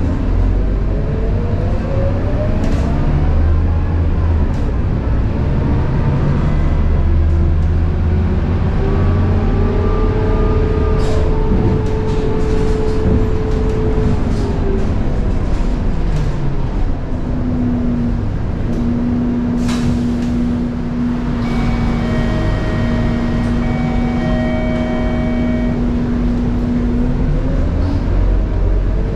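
Scania K230UB bus heard from inside: the ZF Ecomat 6HP504C automatic gearbox gives a high-pitched whine over the diesel engine's rumble. The whine rises as the bus accelerates through a gear, holds steady, falls away, holds again at a lower pitch and starts rising again near the end. A brief electronic beeping sounds about two-thirds of the way through.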